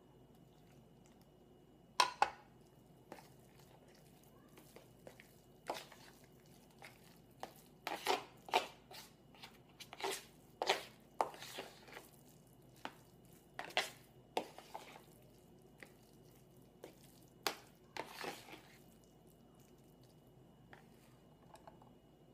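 Spoon working almond milk into a thick cauliflower-mash and protein-powder porridge in a bowl: irregular knocks and scrapes against the bowl and wet squishing, starting about two seconds in and stopping a few seconds before the end.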